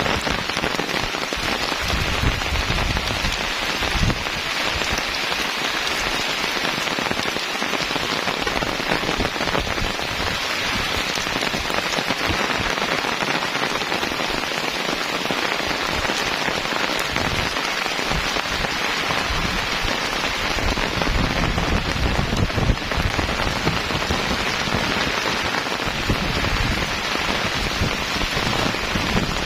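Heavy rain falling steadily and densely, with strong wind gusting in irregular low rumbles underneath.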